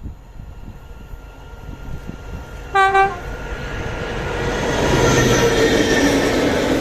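Train horn giving a short double toot on one steady pitch, followed by the rising rumble of the train drawing closer and passing.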